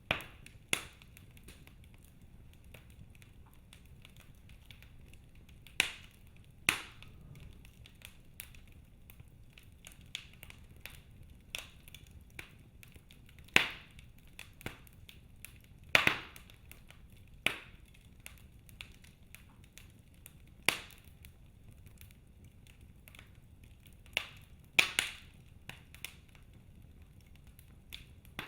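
Wood fire burning in a fireplace, the logs crackling with irregular sharp pops a few seconds apart over a faint low hiss.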